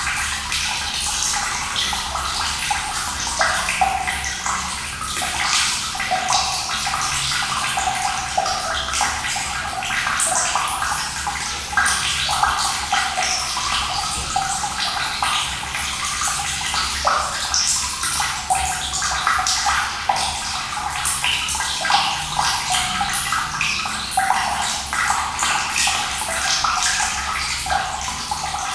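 Running water splashing steadily, a continuous bright rush full of small splashes, with no change throughout.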